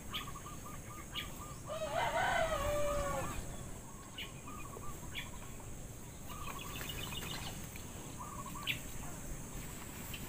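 Birds calling outdoors: one long call about two seconds in that rises and then falls in pitch, over strings of short repeated chirps.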